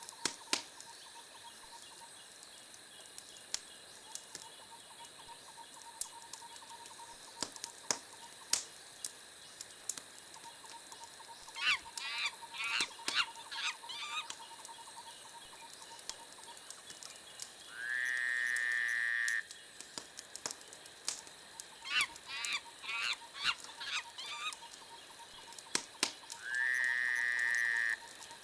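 Wood fire crackling, with scattered sharp pops and snaps. Twice there is a quick cluster of high chirping notes, and twice a high whistling tone that rises and then holds for about a second and a half; these whistles are the loudest sounds.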